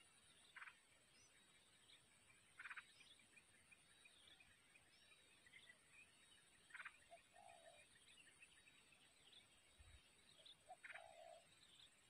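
Faint short bird calls, four of them a few seconds apart, each a quick rattly burst, with a couple of lower notes, over a steady high-pitched insect drone.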